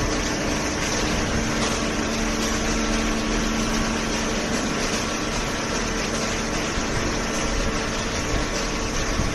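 Waste paper baler's hydraulic power unit running steadily: an even machine hum with a constant low drone, no strokes or impacts.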